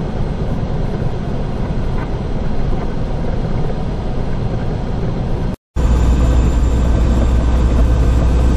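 Steady rumble of a semi-truck's diesel engine and road noise heard inside the cab. About five and a half seconds in, the sound cuts out for a moment and comes back with a heavier low drone.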